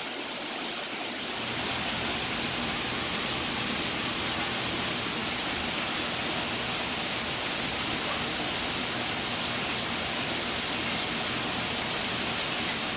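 Steady rush of aquarium water flowing and filtering: an even hiss of moving water from the tank's circulation.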